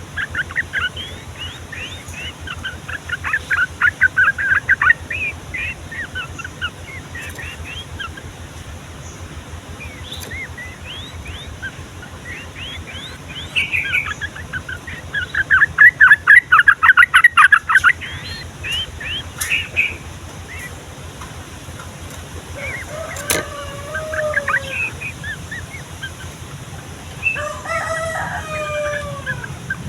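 Yellow-vented bulbul singing: quick bubbling phrases of chirped notes, with a long, fast rolling burst about 15 to 18 seconds in. A lower, drawn-out call sounds twice in the second half, the longer one near the end.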